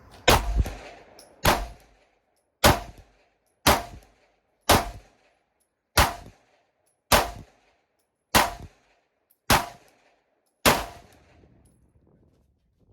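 Ten pistol shots from a 9mm handgun fired at a steady pace of about one a second, each shot trailing off briefly; the shooting stops about two seconds before the end.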